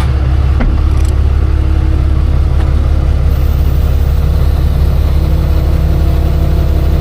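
Truck engine idling steadily at constant speed, with a faint click about half a second in.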